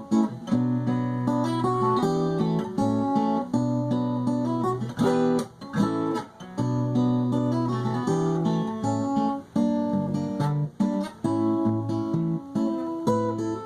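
Acoustic guitar strummed and picked through chord changes, an instrumental break with no singing.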